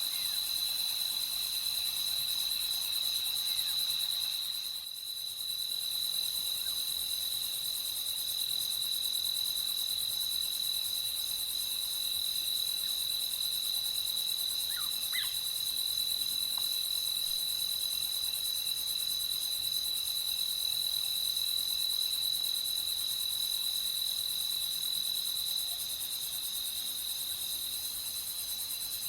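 A night chorus of crickets trilling steadily and continuously. The sound dips briefly about five seconds in, and a couple of faint short chirps rise through it near the middle.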